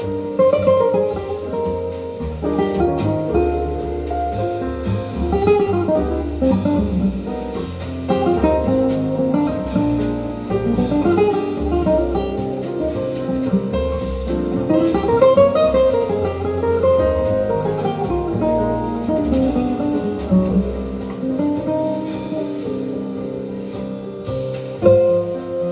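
Small-group jazz played back over hi-fi loudspeakers in a listening room: a jazz guitar plays a single-note solo over bass and drums with ride cymbal.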